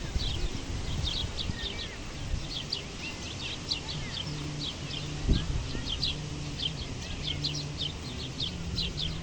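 Small birds chirping without pause, short high chirps several times a second, over a low rumble, with a single thump about five seconds in.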